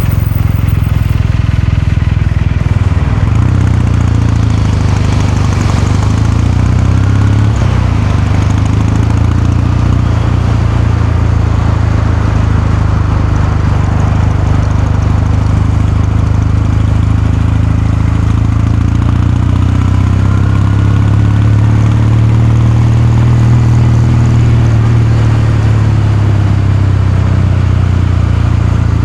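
Kawasaki Meguro K3's air-cooled parallel-twin engine and exhaust running at a fairly steady engine speed, with only slight, gradual rises and falls in pitch.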